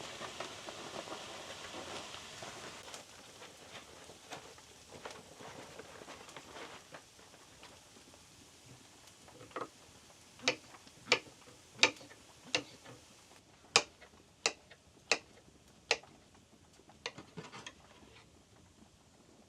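A soft patter that fades away over the first half, then a run of about eight sharp clicks or knocks, roughly two-thirds of a second apart, with a few fainter ones after.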